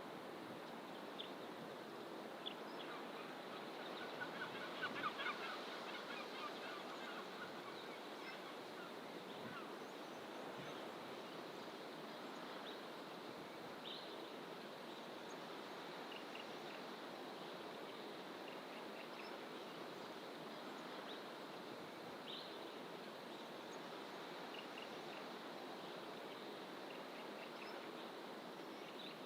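Faint, steady surf-like hiss of distant ocean, with scattered bird calls and chirps from the bush. A quick run of chirping notes about four to six seconds in is the loudest part.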